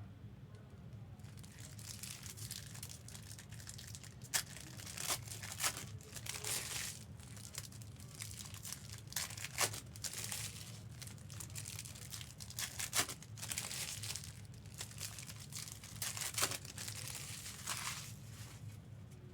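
Plastic trading-card pack wrappers crinkling and tearing as packs are opened and handled, in irregular short rustles, over a steady low hum.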